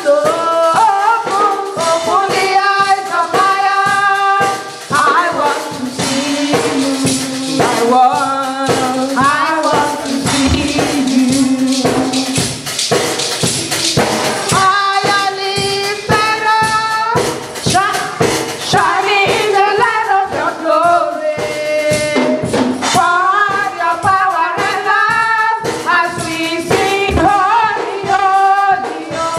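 Church choir singing an upbeat song with a tambourine shaking the beat.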